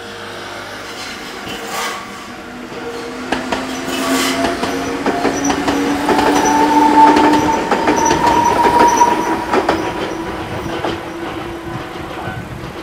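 Enoden electric train passing over a level crossing: wheels clicking over the rails and a whine that rises slightly in pitch, building to its loudest about seven seconds in and then easing off.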